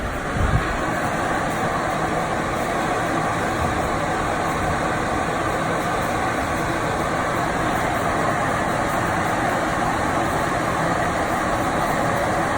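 Steady, loud whoosh of drying equipment, air-mover fans blowing to dry out a water-damaged room, with a brief low thump about half a second in.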